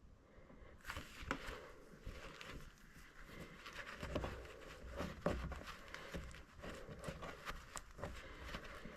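A run of irregular light clicks and knocks, starting about a second in and going on throughout.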